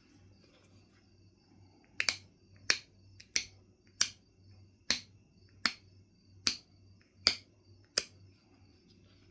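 Knife River Flint being knapped: a series of about ten sharp clicks, roughly one every three-quarters of a second, as small flakes come off the stone.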